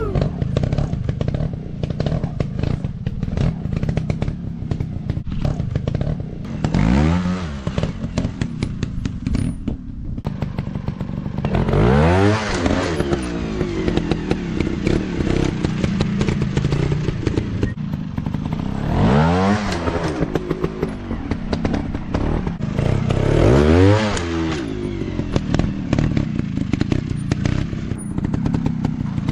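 Dirt-bike engine revving up and back down about four times, over steady clattering and scraping.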